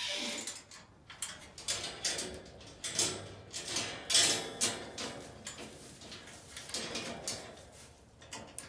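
Scuffling, scraping and irregular knocks and rattles as a reluctant goat is pushed into a pen, with a few louder clatters about two, three and four seconds in.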